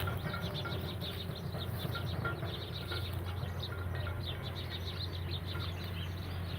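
Small birds chirping in quick, overlapping bursts, with a steady low hum underneath.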